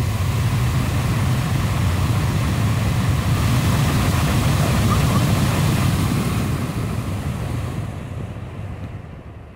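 Electric radiator/condenser fan motor from a Nissan Sentra, switched to another of its three speeds: a sudden loud rush of air with a low rumble and wind buffeting the microphone, then the fan slowing and fading over the last few seconds.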